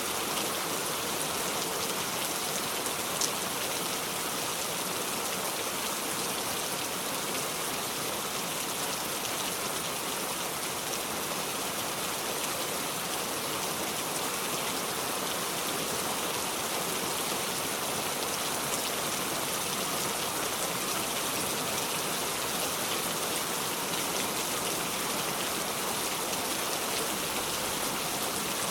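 Steady heavy rain falling on a surface, an even hiss of many drops with no thunder; a single sharper drop tick stands out about three seconds in.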